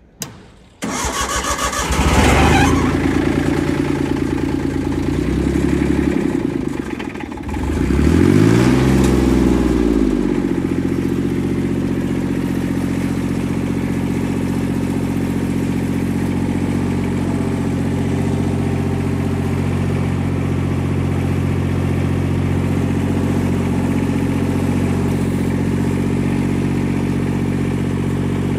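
Three-cylinder diesel engine of a Yanase IZ-Y11-17HD snowblower cranking and catching about two seconds in. It revs up and down twice, then settles from about ten seconds in to a steady idle.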